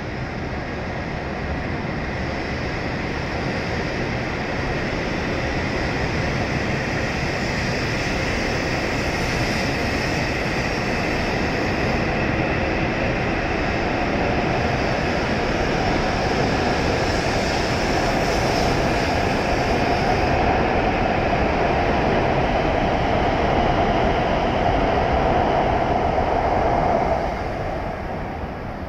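W7-series Shinkansen electric train pulling out and accelerating past the platform, its running noise growing louder with a tone that rises in pitch as it speeds up. The noise drops away suddenly about 27 seconds in, as the last car clears.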